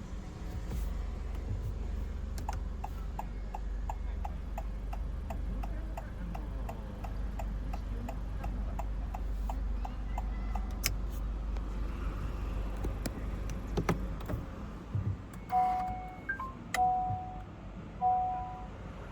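Honda ZR-V hazard-light flasher ticking steadily inside the cabin over the low hum of the idling engine. The hum ends about two-thirds of the way through, and then a two-tone electronic chime starts beeping about once a second.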